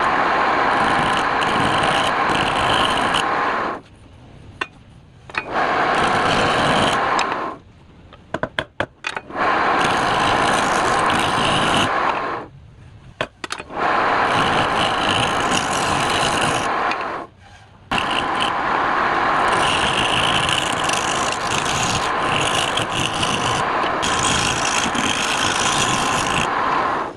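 A tool rubbing and scraping against wood spinning on a lathe, a steady rough noise. It breaks off briefly four times and starts again.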